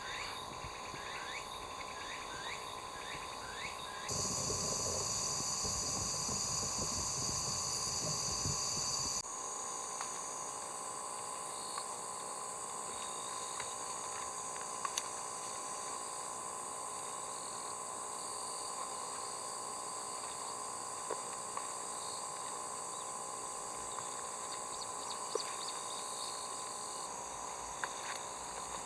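Steady outdoor chorus of summer insects. About four seconds in, a louder rushing noise joins for about five seconds, then stops abruptly, and a few faint clicks are scattered through.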